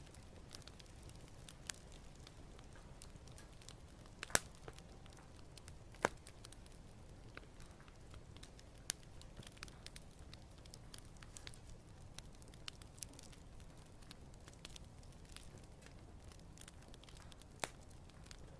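Wood campfire crackling: scattered sharp pops and snaps, the loudest about four and six seconds in, over a soft steady rush of the burning fire.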